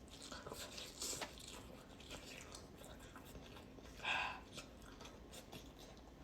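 Close-up mouth sounds of someone chewing a taco: soft wet chewing with small crunches and clicks, and one louder wet mouth sound about four seconds in.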